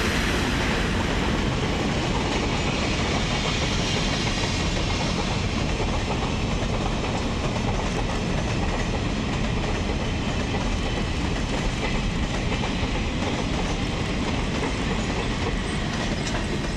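Freight train wagons rolling past on the rails: a steady rumble with wheel clatter.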